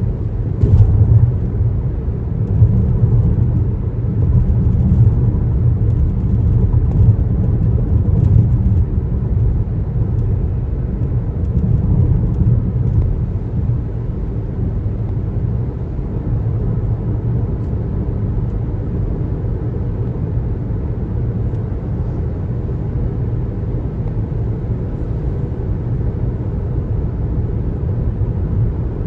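Car driving on the road: steady low rumble of tyre and road noise, with a few faint ticks near the start and about eight seconds in.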